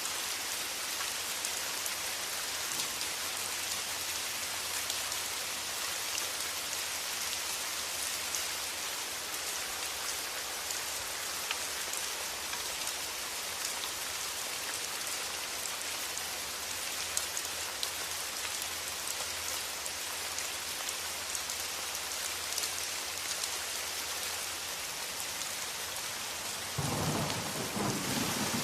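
Steady rain falling, a dense hiss with scattered drop ticks. Near the end a low rumble of thunder comes in over it.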